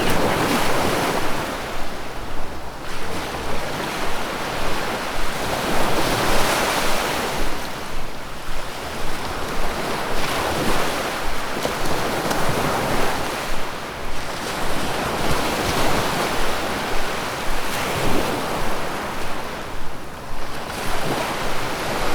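River water rushing, a steady wash of noise that swells and eases every few seconds.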